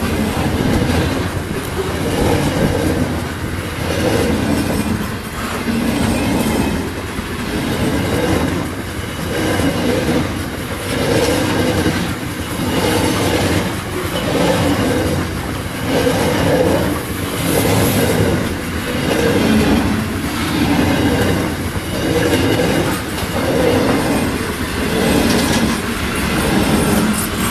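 Freight train wagons rolling past, the wheels clicking over the rail joints, the sound swelling and fading in a steady rhythm about every second and a half.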